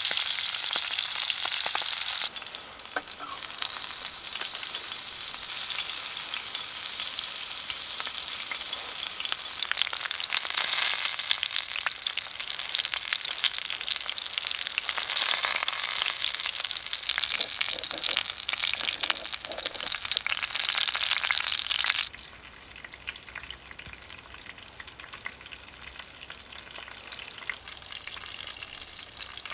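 Food frying in a pan, a steady sizzle. It drops abruptly in level about two seconds in, and drops again to a much fainter sizzle after about twenty-two seconds.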